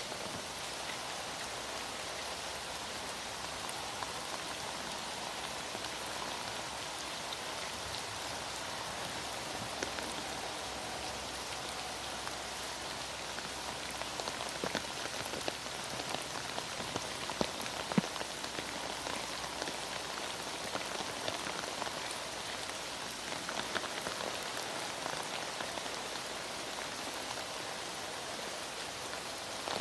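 Heavy rain falling steadily in an even hiss, with scattered sharper drop taps that grow busier in the middle and one louder tap a little past halfway.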